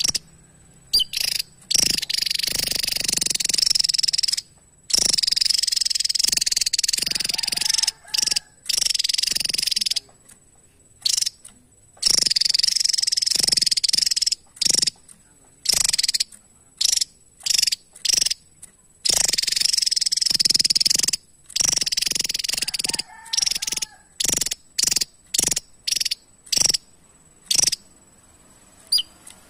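Javan tesia singing: long, rapid, high-pitched jumbled phrases a few seconds each, alternating with short sharp call notes, with abrupt clean breaks between them.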